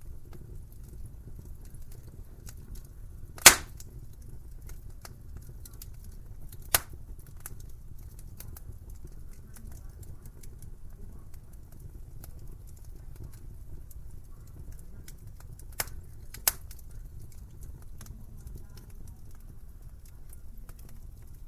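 Wood fire crackling in a fireplace: a steady low rumble of flames with scattered small crackles and a few sharp pops, the loudest about three and a half seconds in, others near seven seconds and around sixteen seconds.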